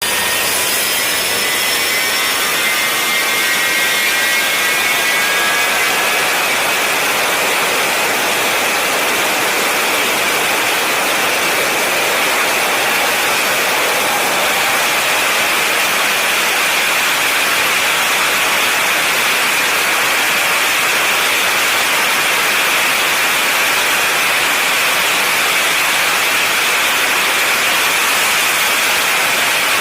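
Jet engine running at high power under test, a loud steady roar with a piercing whine. The whine rises in pitch over the first several seconds as the engine spools up, then holds steady.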